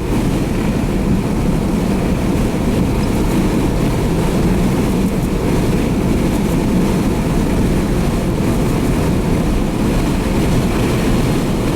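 Steady low rumble of a moving vehicle heard from inside its cabin: engine and road noise while driving.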